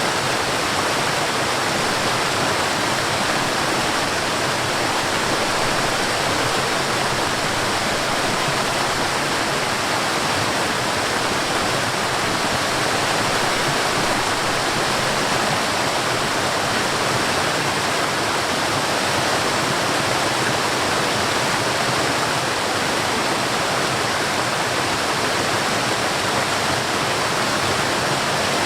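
Forest waterfall: water falling and rushing in a steady, even roar with no breaks.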